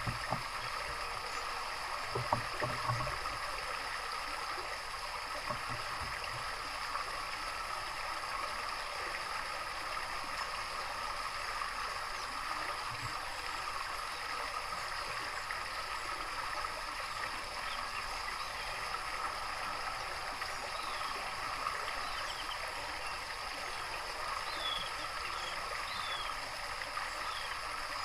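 Steady running water, like a small stream or garden water feature, with a few soft low knocks in the first three seconds. Near the end a few faint short bird chirps sound over the water.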